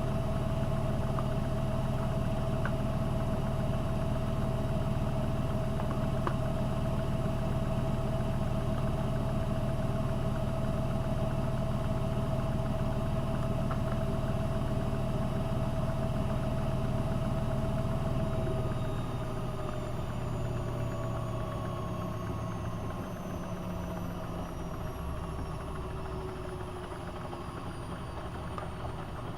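AEG Öko-Lavamat 72520 washing machine's drum spinning at a steady speed with a motor hum and whine. About two-thirds of the way in, the whine falls in pitch and the hum quietens as the spin runs down.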